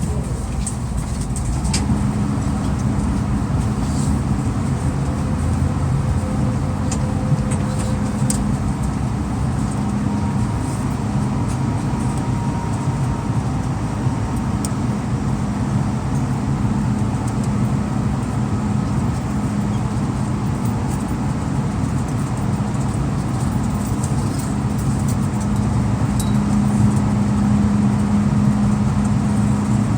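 Steady low rumble and hum inside an MTR M-Train passenger car, with a constant tone near the bottom of the sound and a few faint clicks.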